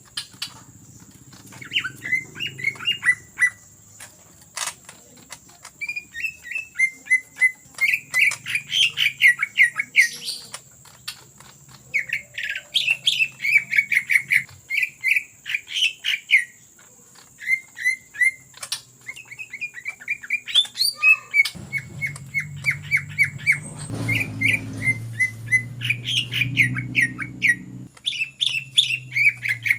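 Green leafbird (cucak ijo) singing in its rapid chattering 'ngetrok' style: quick bursts of sharp, high notes, each burst lasting a second or two, one after another with short gaps. A low hum runs underneath and grows stronger in the second half.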